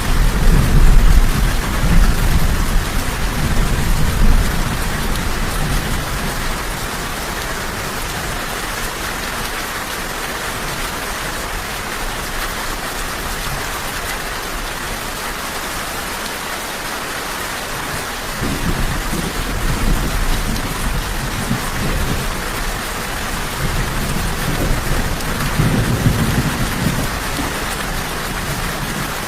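Steady heavy rain, with rolling thunder rumbling low in the first few seconds and again from about two-thirds of the way through.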